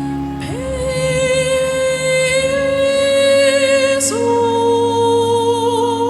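A boy's high, unbroken voice singing over a soft instrumental backing track, holding two long notes with vibrato, the second beginning about four seconds in.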